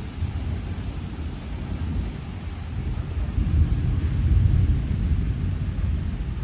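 Thunder rumbling low, swelling to its loudest a little past the middle and then slowly easing, over the steady hiss of rain during a thunderstorm.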